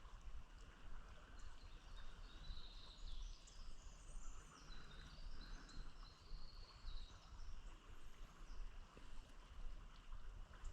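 Riverbank ambience: a steady wash of flowing river water with a low rumble, and a small bird singing a run of high chirps for a few seconds in the middle.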